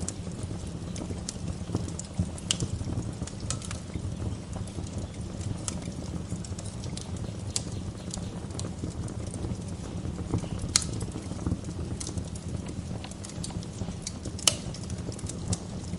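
Wood fire crackling in a fireplace: a steady low rumble with irregular small snaps and pops throughout, and two sharper, louder pops about two-thirds of the way in and near the end.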